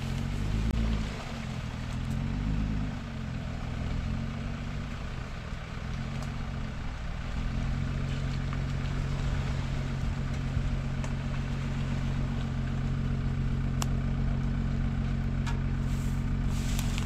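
Jeep Wrangler's engine working under load as it crawls through a flooded, muddy track. The revs rise and fall over the first several seconds, then hold steady from about seven seconds in.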